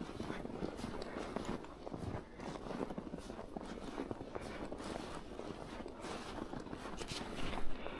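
Footsteps crunching through snow, one step after another, with one louder step near the end.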